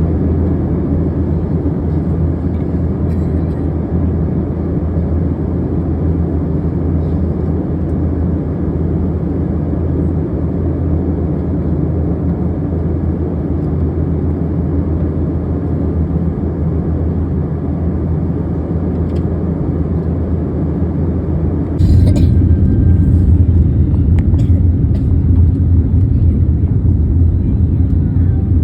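Airliner cabin noise: a steady low rumble of engines and airflow. About 22 seconds in there is a sharp knock and the rumble abruptly gets louder and deeper.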